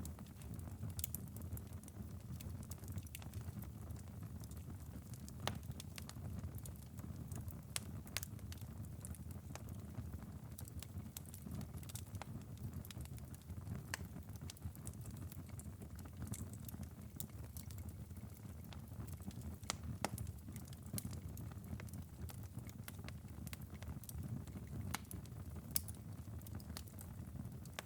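Wood fire in a fireplace, burned down to a glowing ember bed after a long burn: scattered sharp crackles and pops over a steady low rumble.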